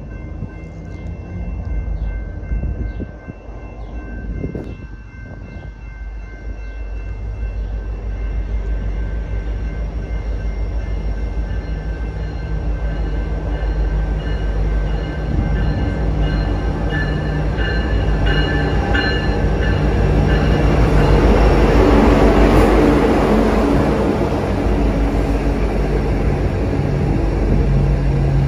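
BNSF intermodal freight train rolling past close by, its trailer- and container-loaded cars rumbling with a steady clatter of wheels on the rails. The noise builds to its loudest about two-thirds of the way through, and faint high steady tones ring over it in the first half.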